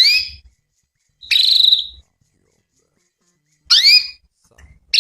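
Female canary calling: short, high calls with gaps of silence between them. Sweeping chirps alternate with buzzy trilled notes in a regular pattern, the kind of call used to set male canaries singing in answer.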